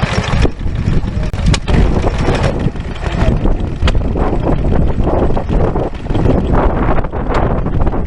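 Vintage stationary engine running steadily, with a few sharp clicks over the low, continuous running sound.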